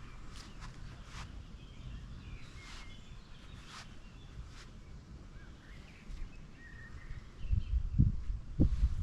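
Outdoor ambience of small birds chirping and twittering over a steady low rumble, with footsteps on a path ticking about once a second. Near the end, heavier low thumps come in and grow louder.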